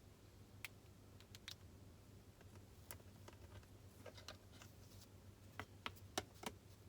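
Quiet room with a faint steady low hum and scattered light clicks and taps from desk work, coming closer together and a little louder near the end.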